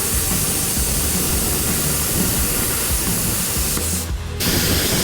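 Plasma cutter hissing steadily as it cuts port holes in the plate. It stops for a moment about four seconds in, then starts again.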